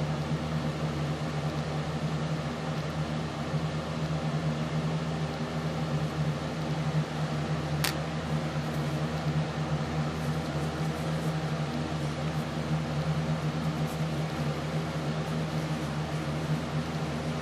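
Steady low mechanical hum with an even hiss, with one sharp click about eight seconds in.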